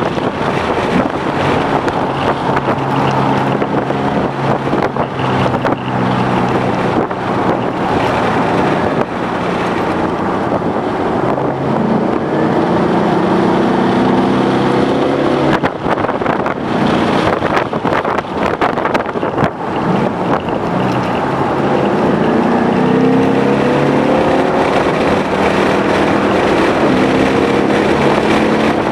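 2011 Ford Mustang GT's 5.0-litre V8 running hard under acceleration, its note climbing in pitch twice as the revs rise, over steady wind and road noise.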